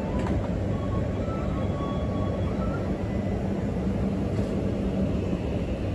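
Steady low rumble of an E6 series Shinkansen running, heard from inside the passenger cabin, with a few faint whining tones over it.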